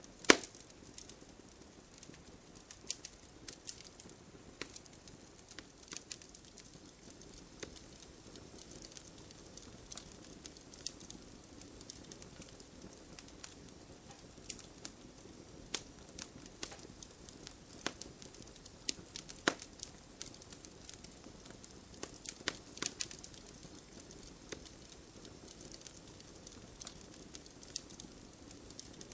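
Wood bonfire crackling, with irregular sharp pops and snaps, the loudest just after the start and around two-thirds of the way through, over a soft steady patter of rain.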